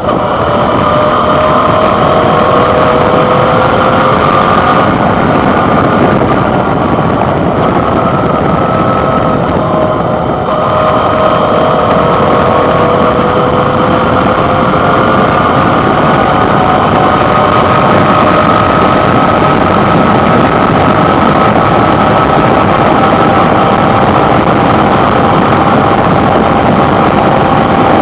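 Suzuki DL650 V-Strom's 645 cc V-twin engine running under way, heard close up over a steady rush of wind and road noise. The engine pitch climbs slowly, drops briefly about ten seconds in, then climbs again.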